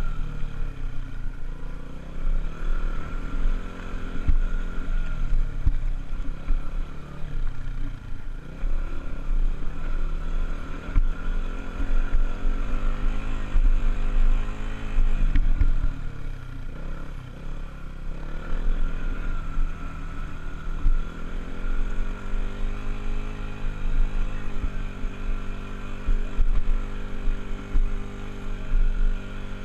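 Honda dirt bike engine under load, revving up and falling back again and again as the throttle is opened and closed, with a steady low rumble beneath it.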